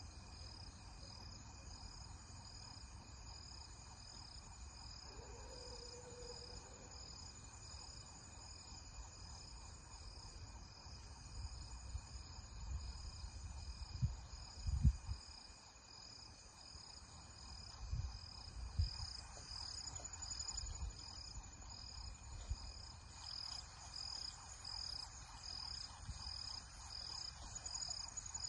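Night insects chirping in a steady, even pulse, about one and a half chirps a second, over a constant high drone. A few short low thumps come midway through.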